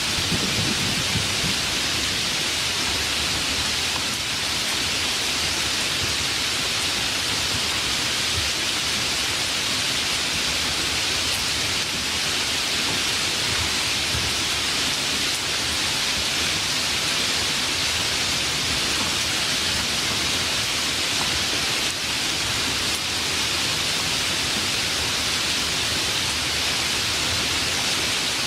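Steady heavy rain, an even hiss with no breaks, with a low rumble dying away in the first second or so.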